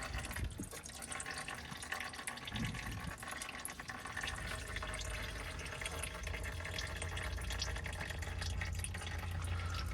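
Old fluid draining from the transfer case drain hole of a 2017 Ford F250 Super Duty into an oil drain pan: a steady trickle with dripping, as the case empties during a fluid change.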